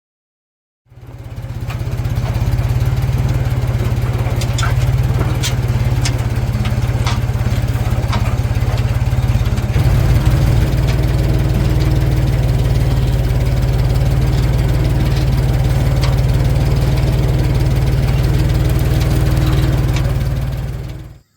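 A vehicle engine running steadily with a heavy low rumble and scattered rattles over it. It fades in about a second in and dies away just before the end.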